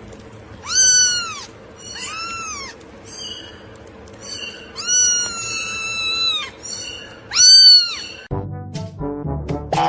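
A cat meowing four times, each call rising and then falling, the third one long and drawn out. Music starts about eight seconds in.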